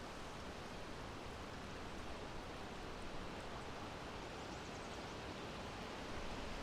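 Steady wind: a continuous, even rushing noise with a low rumble underneath.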